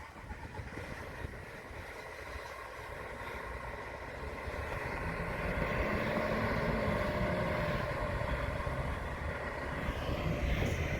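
A vehicle getting closer, with a steady droning tone over a low rumble that grows louder about halfway through and then holds.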